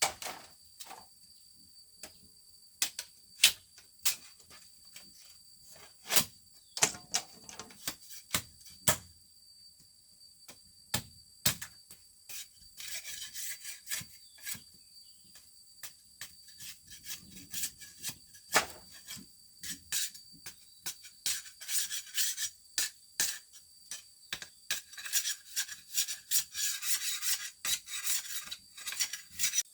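Scattered sharp clicks and knocks, then, from about halfway in, runs of quick rasping, scraping strokes, like something being scraped or cut by hand.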